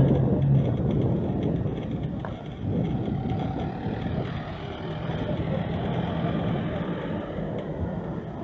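Street traffic: motor vehicles running and passing, a steady low rumble with an engine hum that comes and goes.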